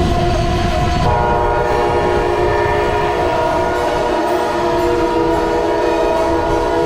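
Locomotive air horn held in one long continuous blast, several chime notes sounding together as a steady chord that grows fuller about a second in, over the low rumble of the train.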